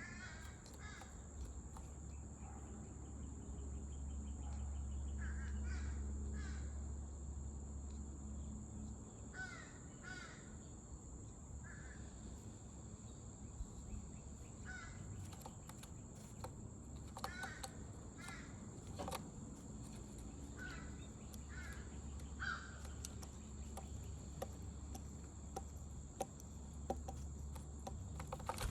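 Crows cawing: short, harsh calls in twos and threes every few seconds.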